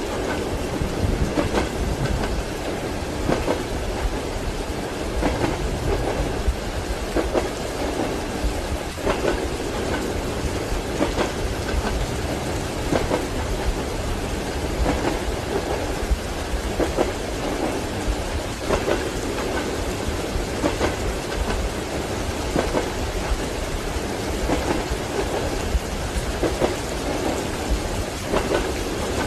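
Steady rain and low thunder rumble, with train wheels clacking over rail joints at irregular intervals of a second or two, as heard inside a moving railway carriage.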